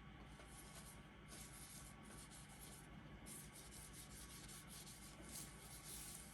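Faint rubbing and rustling in several stretches of a second or two, from gloved hands working over the skin and stencil.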